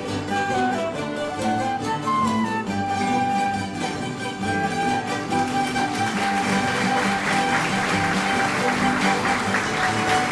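Traditional Azorean bailinho band music from plucked and bowed strings playing a lively tune; about six seconds in a long note is held and audience applause begins to build under it.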